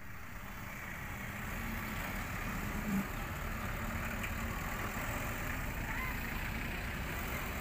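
Diesel engine of a JCB backhoe loader running steadily at low revs.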